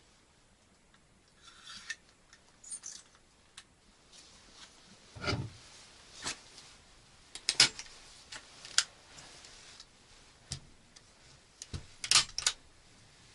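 Irregular clicks, knocks and rubbing of small objects being handled, with a heavier knock about five seconds in and clusters of sharp clicks near eight and twelve seconds.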